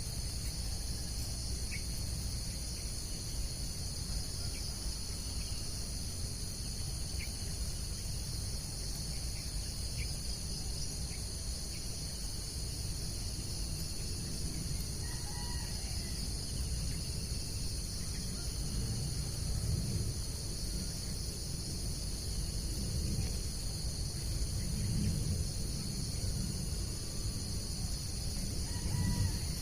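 Steady, unbroken high-pitched chorus of insects trilling, with a few faint bird chirps about halfway through and a low rumble underneath.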